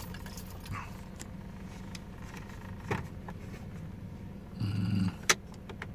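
Car engine idling inside the cabin with a steady low hum. A couple of sharp clicks and a short, louder burst come near the end.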